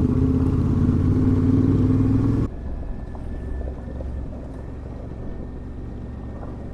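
Adventure motorcycle engine running steadily under way. About two and a half seconds in it cuts off abruptly to a quieter, steady low rumble.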